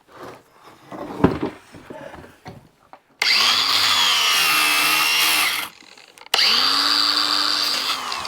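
Power drill running in two bursts of about two and a half and two seconds, its whine sagging and picking back up under load, after a few handling knocks. The bit is burning a little wood.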